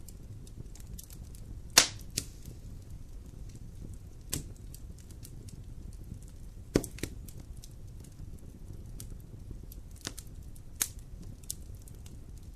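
Wood fire burning with a low steady rumble and scattered sharp pops and crackles, two loud snaps about two and seven seconds in.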